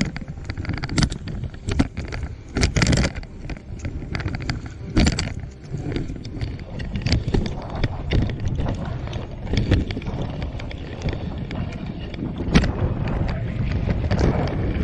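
Dog sled moving through wet slush: irregular scraping, splashing and knocking with wind buffeting the microphone.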